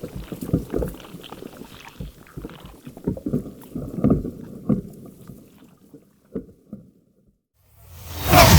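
Sound-design effects: a run of irregular low knocks and clacks that thins out to a few isolated ones, then a brief silence, then a loud rising whoosh that swells up near the end.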